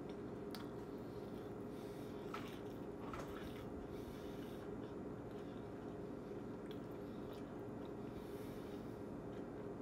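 A man chewing a mouthful of spicy hot onion-ring-style chips with his mouth closed: soft wet chewing with a few faint crunches. A steady low hum runs underneath.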